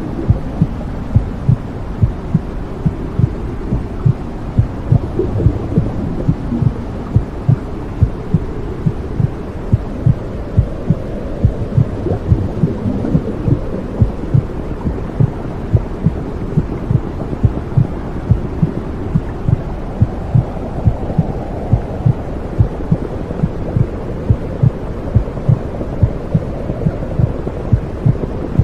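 Womb sound for soothing a baby: a steady low whooshing rumble with a heartbeat pulsing through it, roughly two beats a second.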